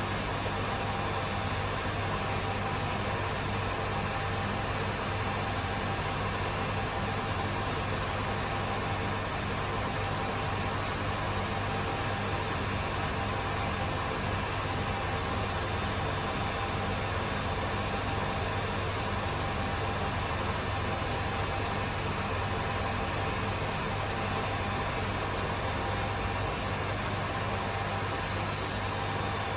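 Two Hotpoint Aquarius washing machines, a WMA37 and a WMA48, spinning together: a steady drum rush and motor hum with a high whine. Near the end one of the high whines falls in pitch as a motor slows.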